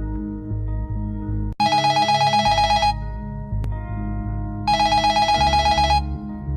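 Background music with a telephone ringing over it: two rapid trilling rings, each a little over a second long, about three seconds apart.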